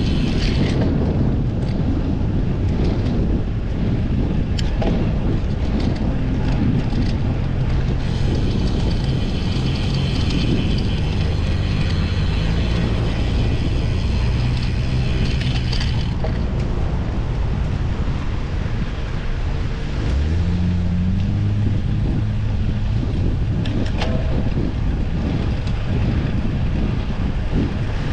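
Road bike's rear freewheel hub ratchet ticking rapidly while coasting, heard briefly at the start and again for several seconds in the middle, over steady wind rumble on the microphone.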